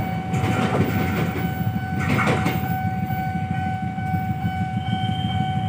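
Long-distance passenger train running through the station without stopping, its last carriages rolling past and moving away; the low rumble eases a little after the loud pass. A steady high tone sounds over it, and there is a brief higher sweep about two seconds in.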